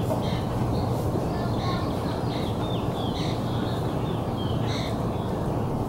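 Birds calling: repeated short calls and a few downward-sliding whistles over a steady low rumble.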